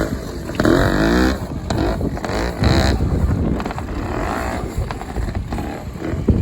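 Trials motorcycle engine being blipped in short bursts of throttle, pitch rising and falling, then running at lower revs from about halfway through.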